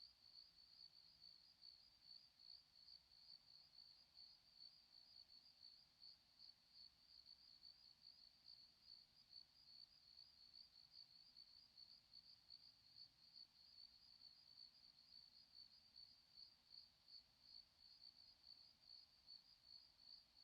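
Faint cricket chirping: a steady, unbroken run of rapid, high-pitched chirps.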